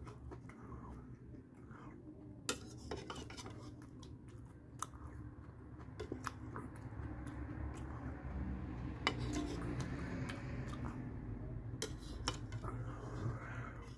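A metal spoon clinking and scraping in a plastic bowl of cereal and milk, with sharp clicks every second or two, along with chewing of soft cereal.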